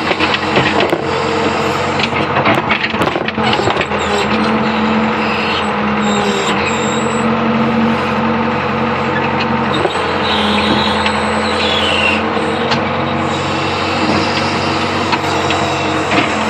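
Old Hitachi UH025 excavator running, its engine a steady drone. There are a few sharp clanks in the first few seconds, and the engine note strengthens twice, briefly.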